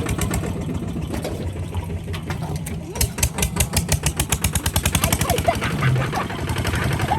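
Kubota RT140 DI single-cylinder diesel engine running with a rapid, even thudding beat, the beats growing louder and sharper about three seconds in.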